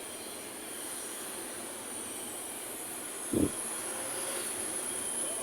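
Heavy road traffic passing on a city street, a steady rumble and tyre noise, over a steady high insect whine. A short thump sounds about three and a half seconds in.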